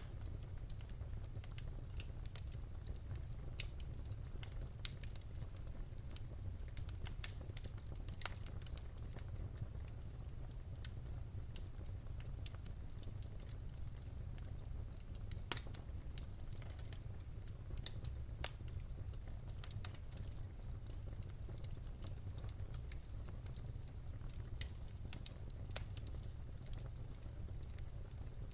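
Wood fire in a fireplace crackling: scattered sharp pops and snaps of burning logs over a steady low rumble of the flames, with a few louder pops.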